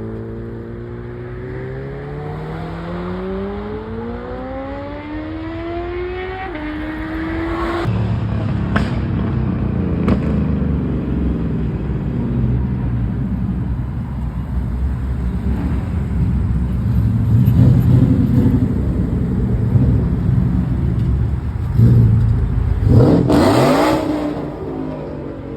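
Car engine accelerating hard, its pitch climbing steadily for about eight seconds, then a loud rough engine rumble, with a sharp rev near the end.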